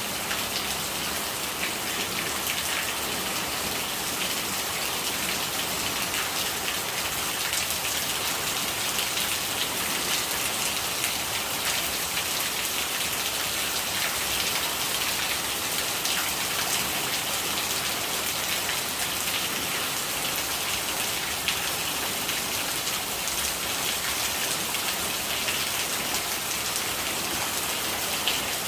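Steady rain falling, with the ticks of many separate drops hitting a surface.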